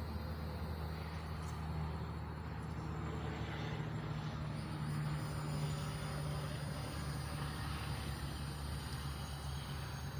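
A steady low mechanical hum, like a motor or engine running, whose pitch shifts about four seconds in.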